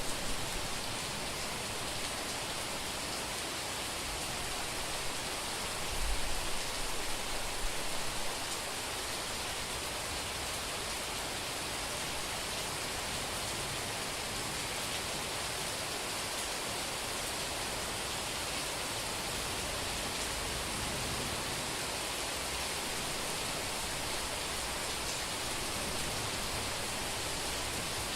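Heavy summer rain pouring steadily onto a street, an even hiss. A short low rumble of thunder comes about six seconds in.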